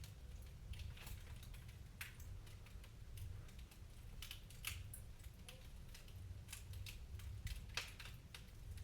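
Wood fire crackling: irregular sharp pops and snaps, some single and some in quick clusters, over a faint steady low rumble.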